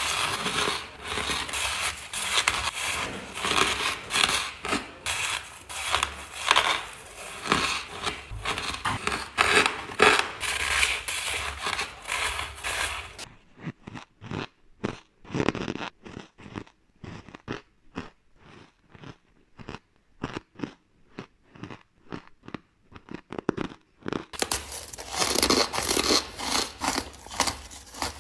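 Close-up crunching of ice being bitten and chewed. The crunching is dense and crackly, then about halfway it turns into separate, sharp crunches with short pauses between them, and it turns dense again near the end.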